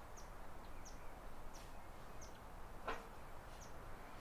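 Faint outdoor ambience with a short, high chirp repeating about every two-thirds of a second, and one louder, sharper call near three seconds in.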